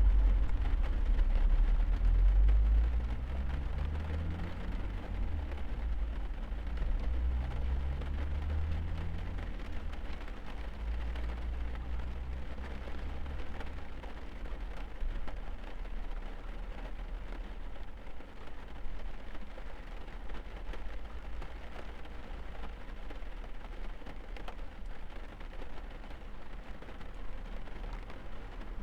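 Rain falling steadily on a car, heard from inside it as an even hiss. A strong low rumble with faint rising tones fills the first ten seconds or so, then fades.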